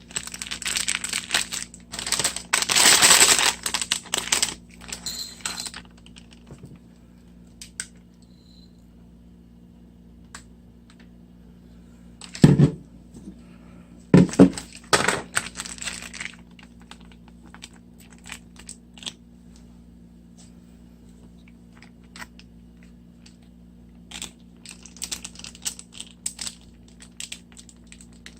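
Close-up eating of instant ramen noodles: bursts of wet slurping and chewing at the start and again near the end, with scattered small clicks and a few louder knocks around the middle.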